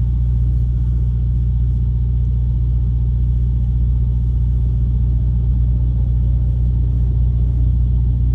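Steady low rumble of the truck's running engine heard inside the cab, unchanging, with no revving.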